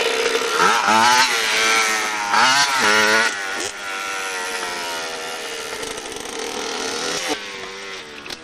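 Motorcycle engine running, its revs rising and falling several times in the first few seconds, then holding steady before dropping away near the end.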